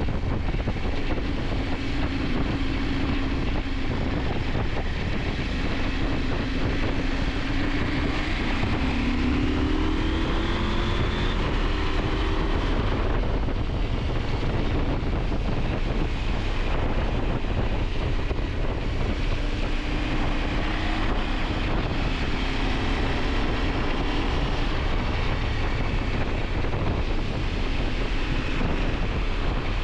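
KTM 890 Adventure's parallel-twin engine running under way, with heavy wind rush on the microphone. The engine note climbs as the bike accelerates, about a third of the way in and again past the middle.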